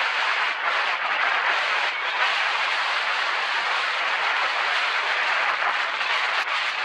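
Steady rushing noise of a mountain bike riding fast downhill: tyres rolling over a loose dirt trail, with air rushing past the camera microphone.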